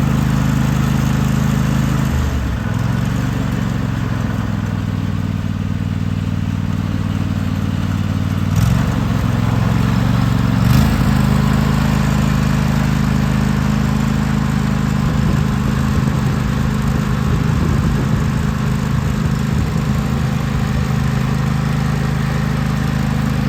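John Deere L130 lawn tractor engine running steadily. Its note shifts about two seconds in and again around the nine- to eleven-second mark, where there are two short clicks.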